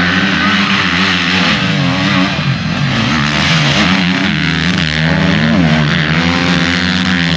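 Several motorcycle engines racing together, each revving up and down through the gears so their pitches rise and fall over one another.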